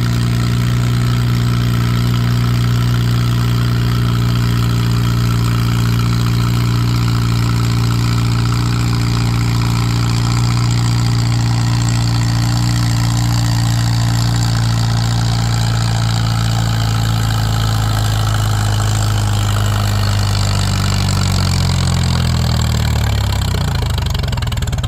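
Antique tractor engine working hard under load, pulling a weight-transfer sled at a steady pitch. In the last few seconds its pitch falls as it lugs down and bogs to a stop at the end of the pull.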